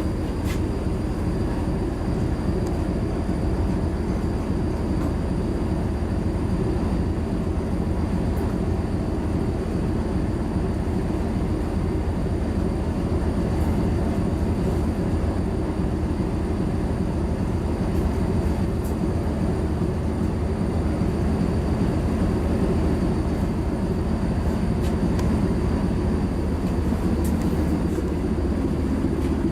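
Coastal cargo ship's engine running steadily during a sea trial, heard aboard as a constant low rumble.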